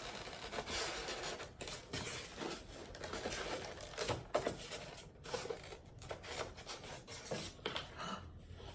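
Packaging being handled and opened: irregular rustling and crinkling with small clicks and knocks as the toy is unpacked.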